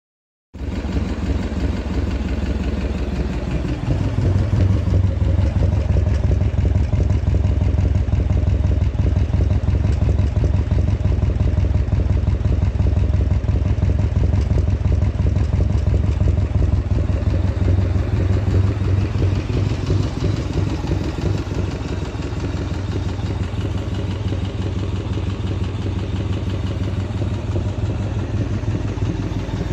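Yamaha XV1600 Road Star's air-cooled V-twin running steadily through its muffler, a deep, even exhaust rumble that starts about half a second in and grows a little louder about four seconds in.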